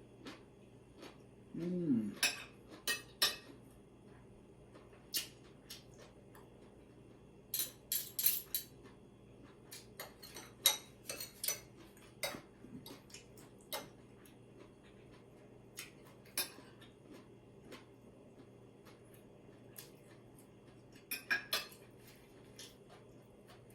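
Cutlery clinking and tapping on plates and dishes during a meal, in scattered sharp clicks, a few close together and then spread out. A brief murmured voice sound comes about two seconds in.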